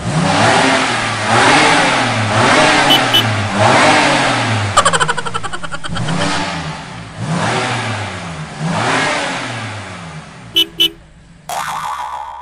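A small motorbike-type engine revved over and over, each rev rising and then falling in pitch about once a second, with a brief rapid rattle around five seconds in. Two short beeps come near the end.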